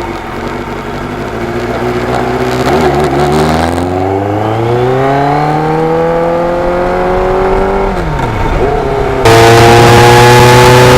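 Motorcycle engine pulling through a gear, its pitch rising steadily for several seconds and then dropping sharply at a gear change about eight seconds in. Near the end it jumps suddenly louder and runs steadily at a higher pitch.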